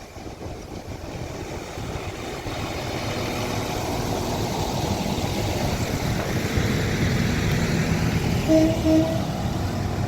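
Transport for Wales Class 197 diesel multiple unit arriving at the platform, its engine and wheel rumble growing steadily louder as it comes in. A short steady tone sounds twice near the end.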